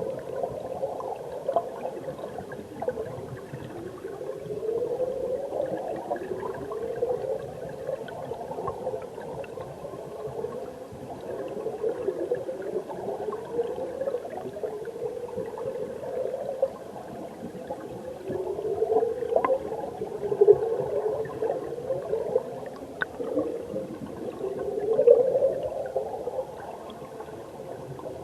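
Mountain stream heard underwater: the current gurgles and bubbles continuously, with repeated rising, sliding tones and a few sharp ticks.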